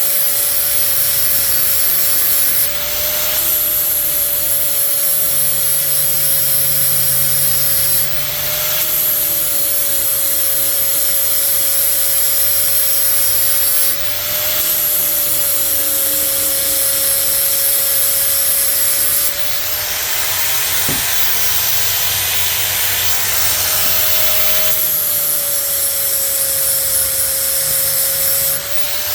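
Electric angle grinder grinding the edge of a steel mower blade in long, steady passes. Its motor tone rises briefly each time the load comes off between passes, about every five to six seconds.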